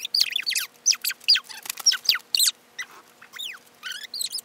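Bird chirping: a run of short, high calls that slide downward, several a second, with a brief pause about halfway through.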